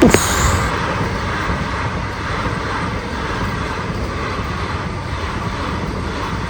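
Vande Bharat Express electric trainset passing at speed. It hits with a sudden loud rush of air as the front goes by, then a steady rumble and rush of wheels on rails.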